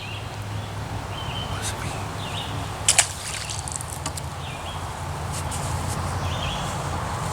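A bird calling over and over with short high notes, roughly one a second, over a steady low rumble. One sharp click about three seconds in.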